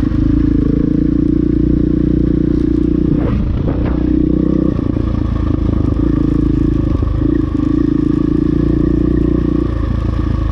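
KTM dirt bike engine running steadily under throttle on a rocky trail, the note dipping and changing briefly about three to four seconds in before settling again, with some clatter over the rocks.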